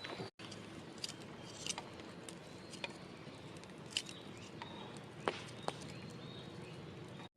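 Faint campfire crackling: a low steady hiss with scattered sharp pops from burning firewood.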